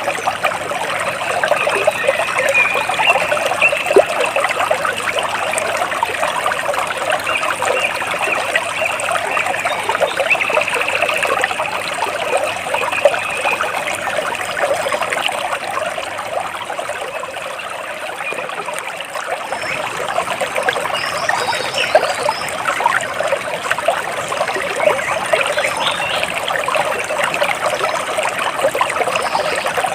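Water splashing and trickling continuously, a steady dense patter of small splashes.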